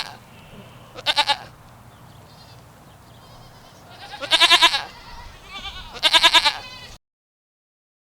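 Bleating from a goat or sheep-type farm animal: three loud, quavering calls, the middle one the longest, with a fainter call just before the last.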